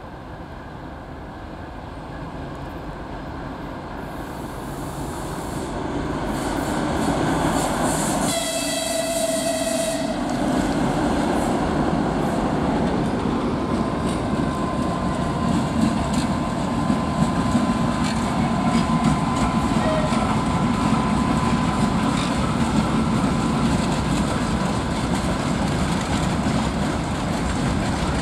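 Soviet-built shunting diesel locomotives approaching with a freight train, getting steadily louder, and one locomotive gives a single horn blast of under two seconds about eight seconds in. Then the loaded freight wagons roll past close by, wheels clicking over rail joints, with a thin steady wheel squeal for several seconds in the middle.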